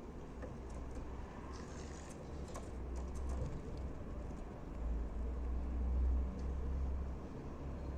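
Small sharp clicks of a white-winged dove pecking at dry dog food, clustered between about one and a half and three and a half seconds in, over a steady low rumble that swells near the end.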